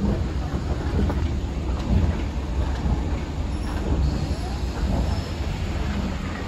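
Railroad cars rolling past at close range: a steady low rumble of steel wheels on rail, with irregular clicks and faint wheel squeal.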